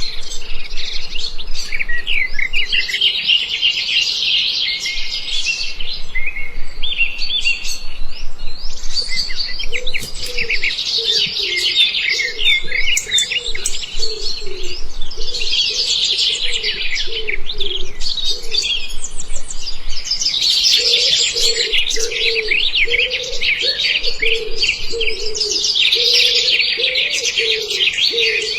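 A flock of small birds chirping densely, the chatter swelling and easing every few seconds. From about a third of the way in, a lower repeated note pulses beneath it.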